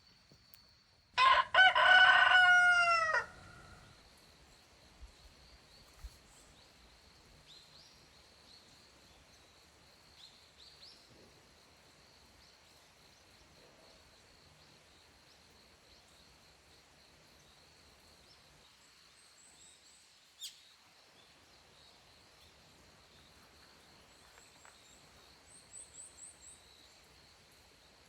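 A rooster crowing once, a loud call of about two seconds whose pitch bends and falls at the end. Afterwards only faint high bird chirps over a steady, faint high-pitched hum.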